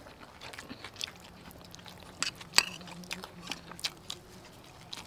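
Close-up mouth sounds of people chewing beef fried rice, with scattered small clicks and one sharper click about two and a half seconds in.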